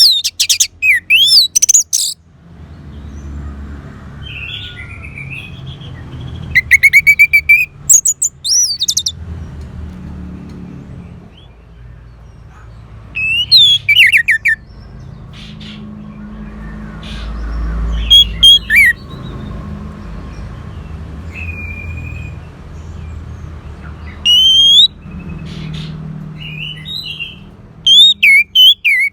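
Orange-headed thrush singing: short, loud bursts of varied whistled and warbled phrases, with several quiet seconds between bursts, over a low background rumble.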